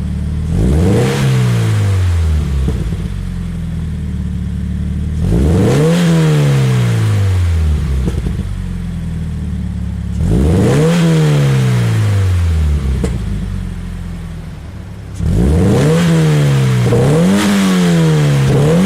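2016 Subaru BRZ's 2.0-litre flat-four boxer engine through a Blitz Nur-Spec F-Ti catback exhaust, revved three times from idle, each rev rising quickly and then falling slowly back to idle. Near the end it is blipped rapidly up and down several times in a row.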